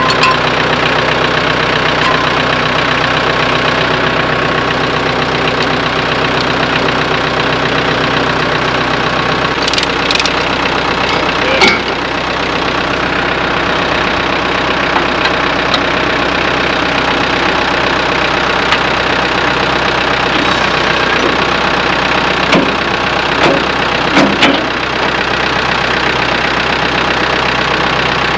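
Branson compact tractor's diesel engine idling steadily; its note shifts slightly about ten seconds in. A few sharp metallic clanks sound over it, one near the middle and a couple near the end.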